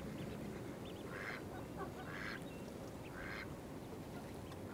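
A water bird calling: three short, similar calls about a second apart, over steady low background noise.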